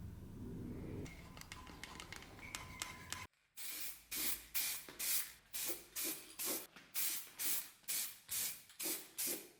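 A few light clicks and taps, then a quick run of about a dozen short sprays of liquid, roughly two a second, each a brief hiss.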